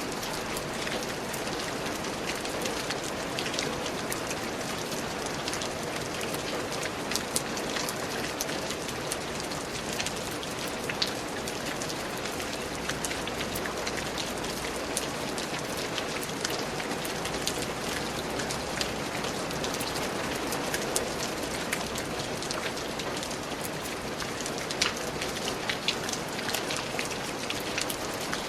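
Steady rain falling in a forest, a dense even hiss with many individual drops pattering distinctly on leaves and surfaces.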